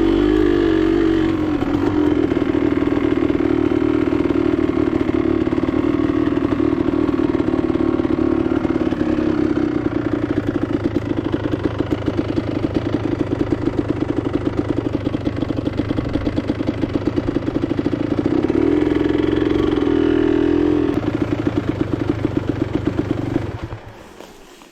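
Enduro motorcycle engine running steadily under way, its pitch rising briefly about three-quarters of the way through, then dying away near the end as the bike comes to a stop.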